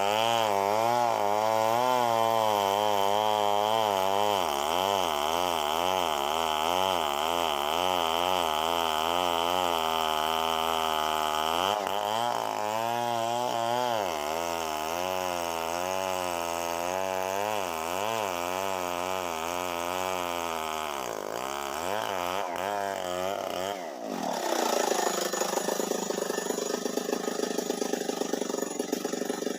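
Chainsaw running in a cut, its engine pitch wavering up and down about twice a second. About 24 s in, it breaks off abruptly into a rougher, noisier running sound.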